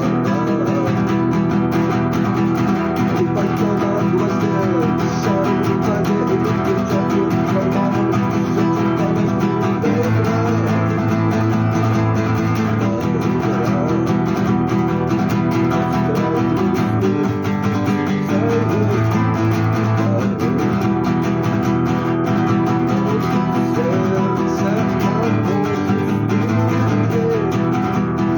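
Guitar music: a plucked and strummed guitar part playing steadily, with no singing.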